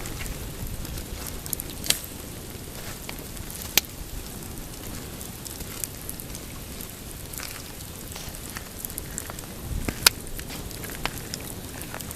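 Pine-wood campfire crackling, with scattered sharp pops; the loudest come about two and four seconds in and again near ten seconds. A steady low rush runs underneath.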